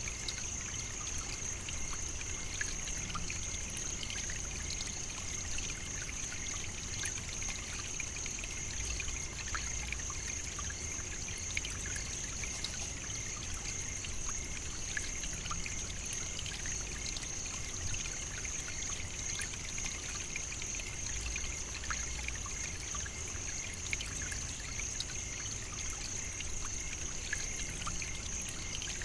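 Savannah nature ambience: a steady high-pitched insect chorus, with a lower second insect band and scattered faint clicks.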